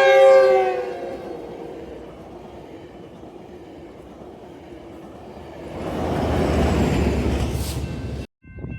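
Locomotive air horn sounding a chord that sags in pitch and ends about a second in, then the rumble of a passing train, swelling to a loud rush from about six seconds in before cutting off suddenly.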